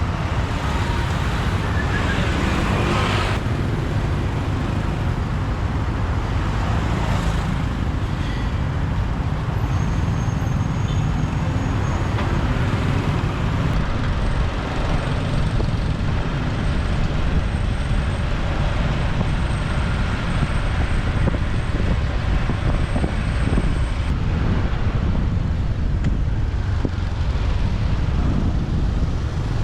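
Motorbike riding through city traffic: a steady low rumble of engine and road noise, with the traffic around it. A louder passing noise comes in the first few seconds.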